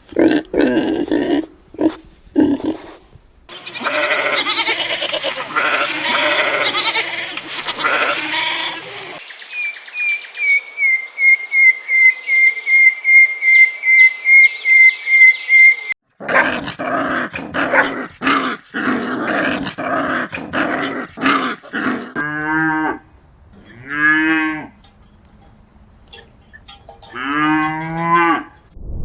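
A run of different animal calls, one after another, ending in three quavering bleats from farm livestock.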